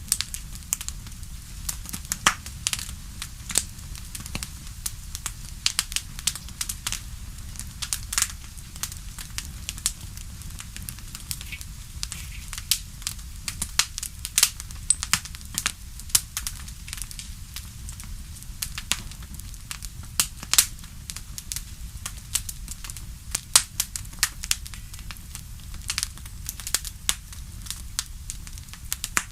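Fire crackling in a fireplace: irregular sharp pops and snaps, several a second, some louder than others, over a steady low rumble.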